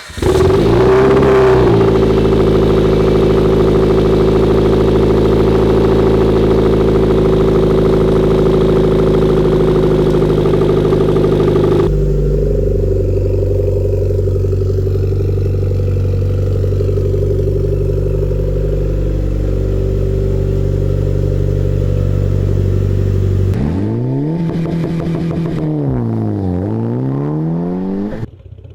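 Mitsubishi Lancer Evolution IX's turbocharged four-cylinder starting through a newly fitted aftermarket exhaust: it catches at once with a brief flare, then idles steadily. Near the end the engine is blipped several times, the exhaust note rising and falling with each rev.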